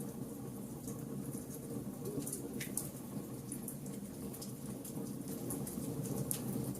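Wood fire burning: a steady low rush of flames, with irregular sharp crackles and pops from the burning wood.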